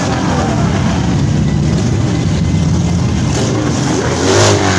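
Motorcycle engines running with a steady deep rumble. A voice calls out briefly near the end.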